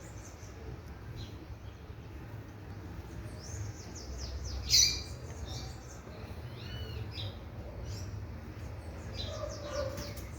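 Kept birds chirping and calling in short, high notes, with one loud, sharp call a little under halfway through. A steady low hum runs underneath.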